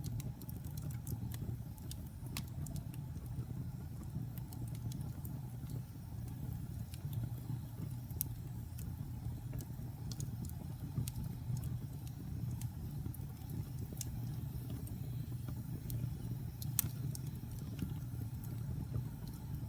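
Wood fire burning in a fireplace: many scattered small crackles and pops over a low steady rumble of the flames, with a sharper pop about 17 seconds in.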